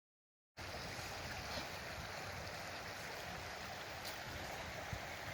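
Flowing river water rushing steadily, cutting in abruptly about half a second in after dead silence.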